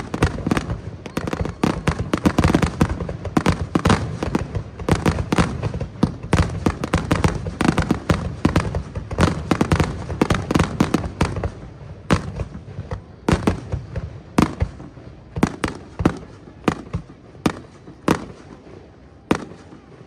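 Fireworks display: a rapid barrage of aerial shell bursts and crackling bangs, dense for the first twelve seconds or so, then thinning to scattered single booms.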